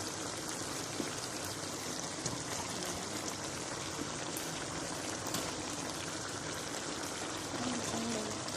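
Fish dish cooking in a pan: a steady hiss of simmering and sizzling, with a few faint pops now and then.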